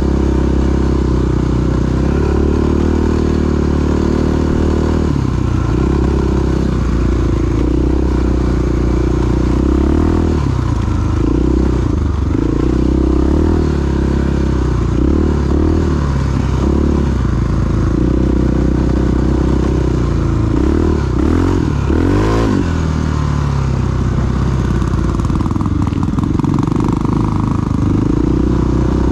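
Big single-cylinder four-stroke dual-sport motorcycle engine running under way, its revs rising and falling with the throttle and gear changes, climbing sharply about 22 seconds in.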